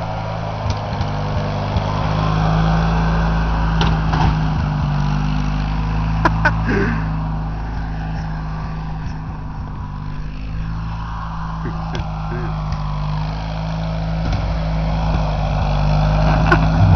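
Lawn tractor engine running steadily, its drone rising and falling, with a few sharp knocks and clatters scattered through, the sound of the tractor hitting a dishwasher.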